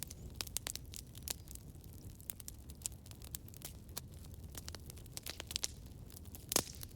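Campfire burning: a low steady rumble under irregular sharp crackles and pops, with one louder pop near the end.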